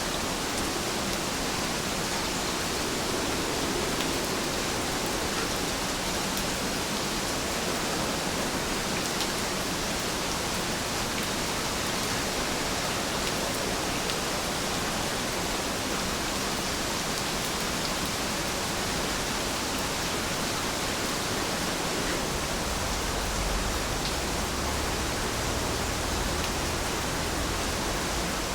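Steady rainfall, an even hiss of many drops with faint scattered patters. A low rumble comes in under it about three-quarters of the way through.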